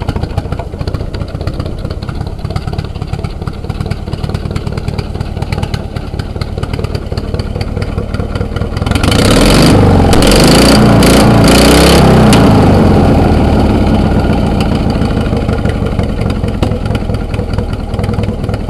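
Derby lawn mower's engine running loud through short temporary exhaust pipes, idling with a fast, even firing beat. About nine seconds in it is revved up hard for a few seconds, then settles gradually back toward idle.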